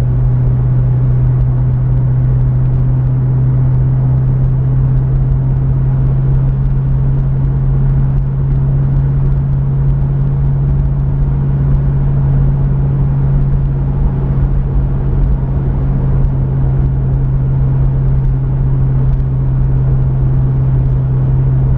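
Pontiac Firebird cruising at a steady speed, heard from inside the cabin: an even engine drone over road and tyre noise.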